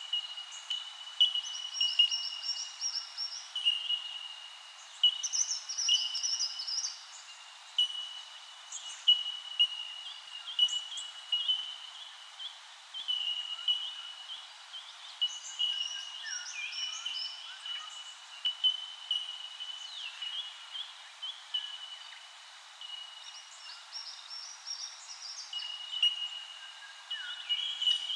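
Chorus of many birds calling, a dense run of short chirps at about one pitch with higher twittering phrases over it, continuing without a break.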